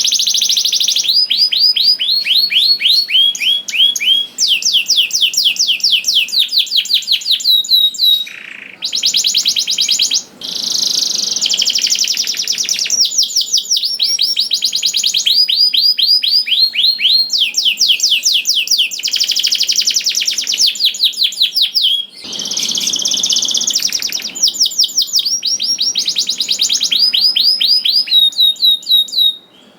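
Domestic canary in full song: long rolling trills of rapidly repeated downward-sweeping notes, the tempo changing from phrase to phrase, with a few brief pauses between phrases.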